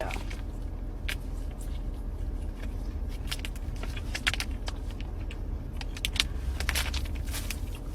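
Chewing and small mouth clicks and smacks as a slice of raw bacon is eaten, scattered irregularly, over a steady low rumble of a car.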